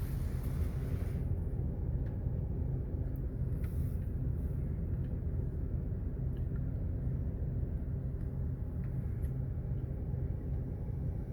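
Steady low rumble of a car's engine idling, heard from inside the cabin while the car sits stopped in the wash bay.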